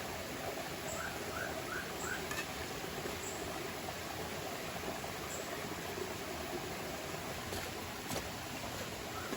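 Steady rush of a forest river, with four short rising chirps about one to two seconds in.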